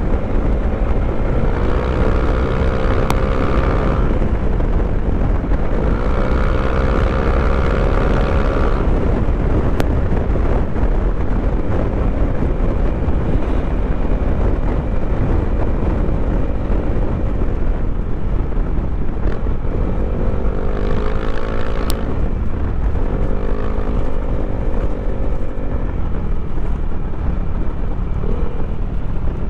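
Yamaha Aerox scooter engine, bored and stroked to 200cc, running with a steady low rumble and four rises in revs, each lasting two to three seconds.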